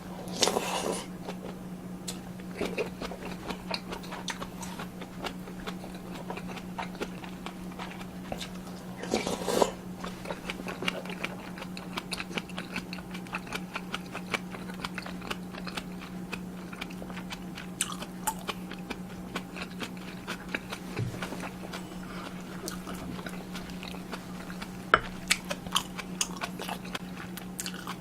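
Close-miked eating of tuna kimchi stew and fried eggs: steady chewing and biting with many small wet mouth clicks, and two louder, second-long noisy sounds near the start and about nine seconds in. A steady low hum runs underneath.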